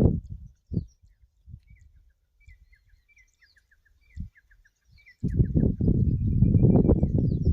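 A bird chirping, a run of short high notes that each drop in pitch. A loud low rustling noise cuts off at the start and starts again about five seconds in.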